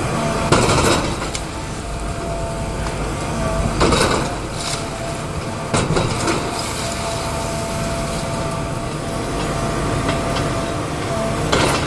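Heavy machinery running with a steady drone, broken by loud, short bursts of noise about a second in, near four and six seconds, and near the end.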